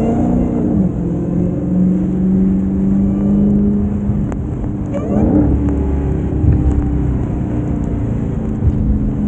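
Supercharged 6.2-litre V8 of a Dodge Hellcat Redeye running while the car is driven, its engine note rising quickly in pitch about five seconds in as it accelerates.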